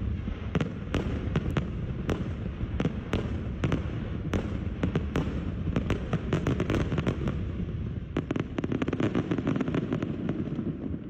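Aerial fireworks display: many sharp bangs and cracks in quick, irregular succession over a continuous low rumble, thickest about two-thirds of the way through.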